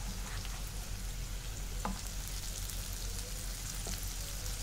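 Masala-stuffed okra frying in oil in a nonstick pan: a steady sizzle with scattered small crackles, as a silicone spatula stirs and turns the pieces.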